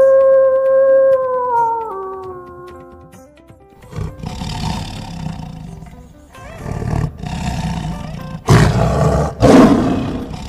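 A long, steady howl that drops in pitch and fades out within the first three seconds. From about four seconds in come a series of rough big-cat roars, the loudest two near the end, over background music.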